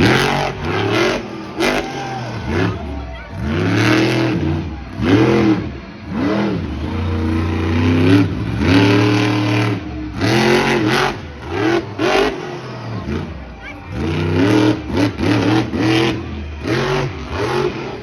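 Monster truck engine revving hard again and again, its pitch climbing and falling every second or two, with loud noisy stretches between the revs.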